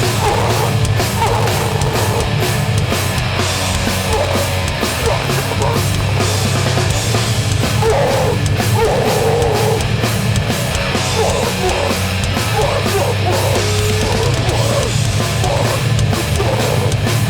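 Metallic hardcore band playing live, loud and heavy, with pounding drums and distorted guitars.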